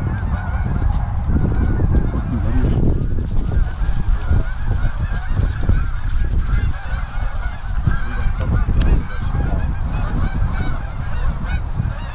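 A large flock of geese honking, many calls overlapping without a break, as the birds circle in to land among decoys.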